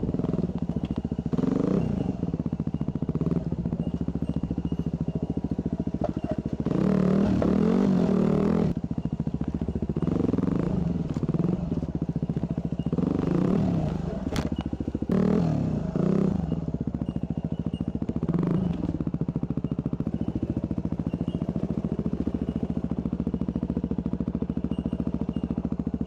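Dirt bike engine running steadily, with repeated bursts of revving that rise and fall in pitch.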